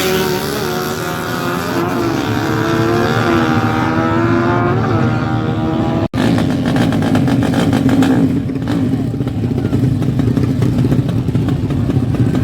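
Honda Karisma motorcycle's single-cylinder four-stroke engine running steadily, with a few small blips of the throttle. After a brief break about six seconds in, it carries on rougher and noisier.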